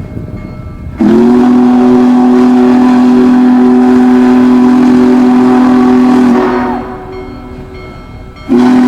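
Union Pacific Big Boy 4014's chime steam whistle, very loud. It sounds one long blast of several notes at once, which slides off as it ends, and a second long blast starts near the end.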